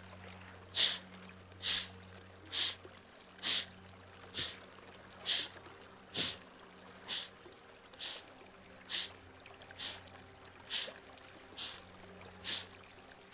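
Kapalabhati breathing: sharp, forceful exhalations through the right nostril, about one a second, some fifteen strokes in a steady rhythm.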